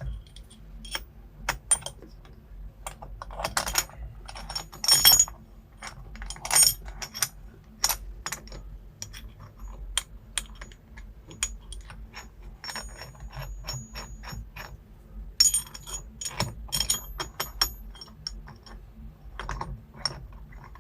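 Irregular metallic clicks and clinks of a steering wheel puller's middle piece and bolts being handled and threaded in by hand, with a few louder ringing clinks about four to five seconds in and again near sixteen seconds.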